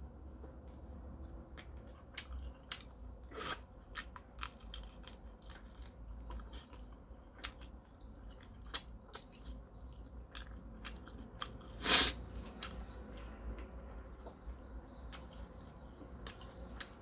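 Close-miked chewing and biting of cooked prawn, a run of short wet clicks and crunches, with one much louder crack about twelve seconds in. Near the end, fingers peel the shell off a cooked prawn.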